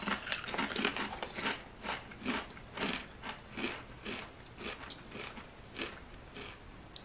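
Potato chips being bitten and chewed: a run of dry, crisp crunches, about three a second.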